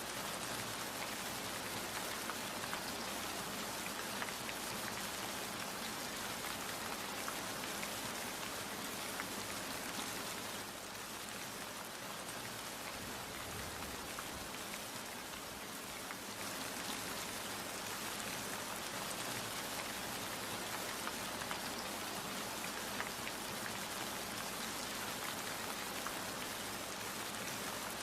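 Steady rain falling, a dense patter of many small drops, easing slightly for a few seconds around the middle.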